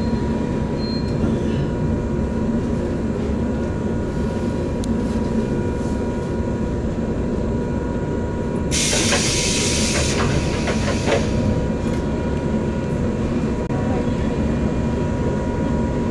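Inside a JR West 117 series electric train coming in to a station stop: a steady low rumble with a thin, steady whine. About nine seconds in there is a sharp burst of hiss lasting about a second and a half, followed by a few clicks.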